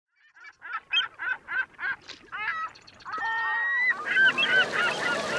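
A run of honking bird calls, about three a second, with more calls from about three seconds in over a steady rushing noise.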